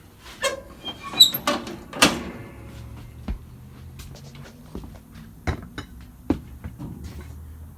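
Riding mower's deck lift lever and linkage being worked, giving metallic clicks, knocks and a short squeak as the cutting deck is lowered and lifted, over a faint low hum.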